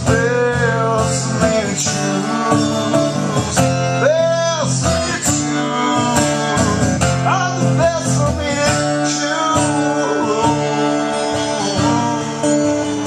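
Country band music in an instrumental break between verses, led by guitar with bending notes over steady low accompaniment.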